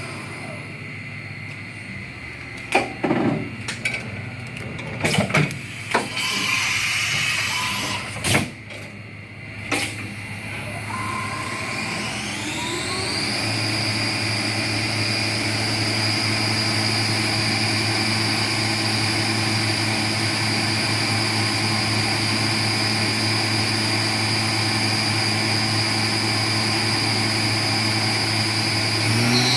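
Fadal VMC 10 CNC vertical machining center at work: a few sharp knocks and a short hiss in the first ten seconds, then a high spindle whine rises about twelve seconds in and holds steady over a low machine hum.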